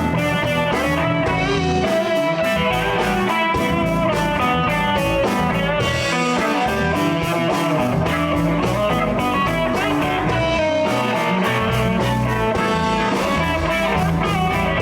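Live blues band playing an instrumental passage, with electric guitar prominent over bass and a steady drum beat.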